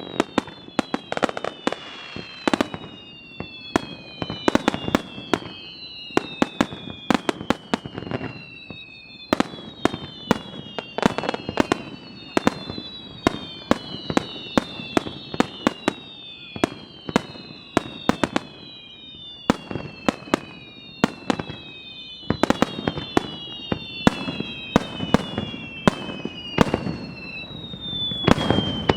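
Aerial fireworks display firing in rapid succession: a dense string of sharp bangs, overlaid throughout with many overlapping whistles that each fall in pitch over a second or two.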